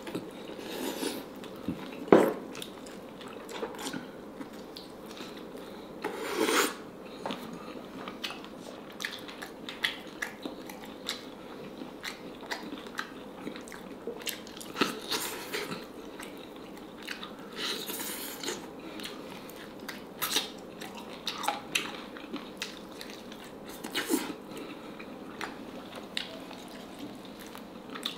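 Close-up eating sounds of a person biting and chewing black chicken and pulling its bones apart, with many small scattered clicks and mouth noises and one sharper click about two seconds in.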